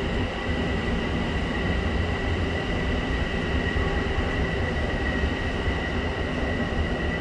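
M7 electric commuter train running by, a steady low rumble with a steady high whine over it.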